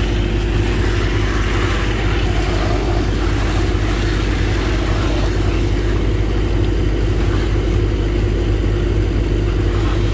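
Engine of a sand-pumping boat running steadily under load, driving the sand pump as it pumps sand ashore through the pipe, with a steady drone.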